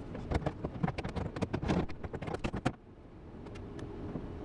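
A quick, irregular run of knocks and clatter for nearly three seconds, then a quieter, steadier background with only a few light clicks.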